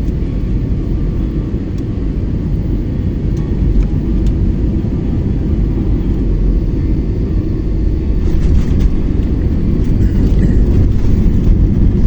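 Steady low rumble of an airliner heard from inside the passenger cabin, growing gradually louder, with a light clatter joining about eight seconds in.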